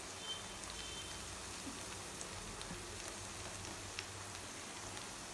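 Onions and drumstick pieces sizzling quietly in a steel kadai, a steady soft hiss with a few faint crackles.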